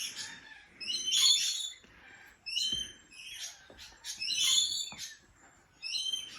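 Parrots calling in short bursts of high chirps, about one burst a second, with a couple of faint knocks in between.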